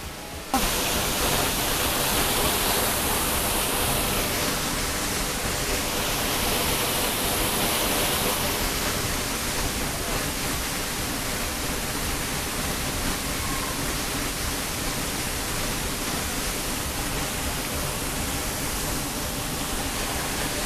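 Waterfall rushing: a steady, even sound of falling water that starts abruptly about half a second in.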